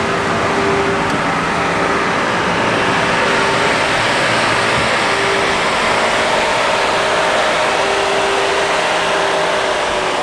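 A car engine idling steadily, its even running carrying a few steady humming tones, one sinking slightly in pitch near the end.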